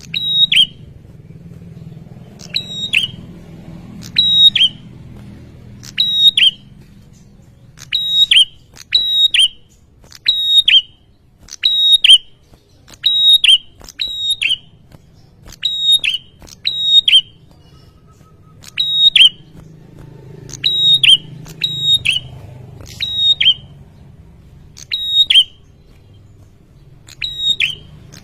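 Male prenjak (prinia) calling: loud, sharp, high chirps repeated about once a second, often in quick pairs.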